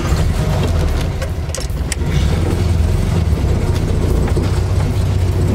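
Volkswagen Fusca (Beetle)'s air-cooled flat-four engine running as the car drives slowly, heard from inside the cabin as a steady low drone.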